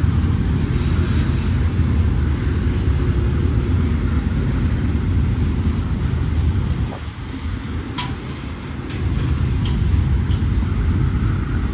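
BNSF diesel freight locomotives rumbling past on the climb through Cajon Pass, a heavy steady engine drone that eases about seven seconds in and swells again. A single sharp metallic clank comes about eight seconds in.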